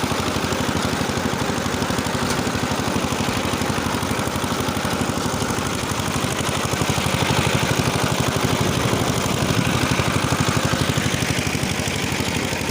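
Engine driving a rotary tiller, running steadily under load. It grows a little louder about seven seconds in, then eases back.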